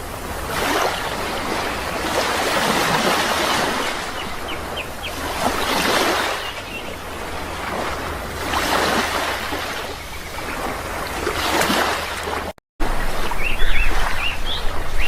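Sea waves washing onto a shore, swelling and falling away every few seconds, with small birds chirping faintly. Near the end the sound cuts out for a moment and resumes louder, with the birds' chirps more prominent.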